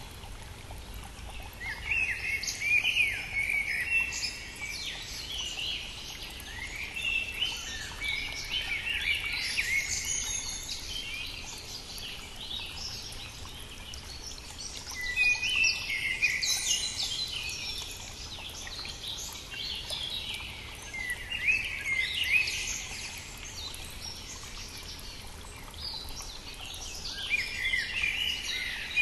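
Songbirds singing in phrases of several seconds each, with a pause of a few seconds between them, over the faint, steady rush of a brook.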